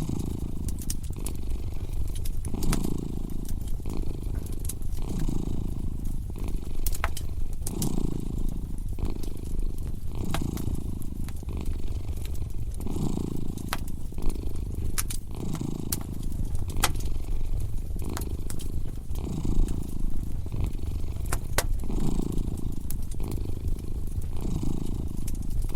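A cat purring steadily, the purr swelling with each breath about every two and a half seconds, over a crackling fireplace fire with scattered sharp pops.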